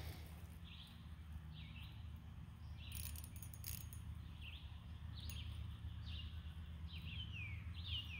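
A bird calling in a run of short, downward-sweeping chirps that come more often toward the end, over a low steady hum. A few sharp clicks sound about three seconds in.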